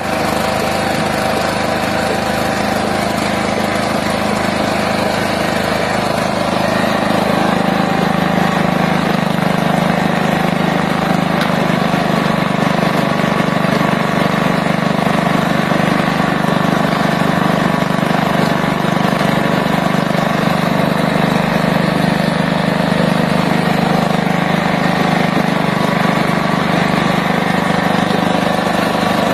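A small engine running steadily at a constant speed, without revving.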